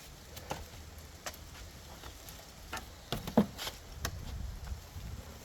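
Scattered clicks and light knocks of metal hand tools being handled, a socket ratchet and extension being gathered. The sharpest click comes about three and a half seconds in.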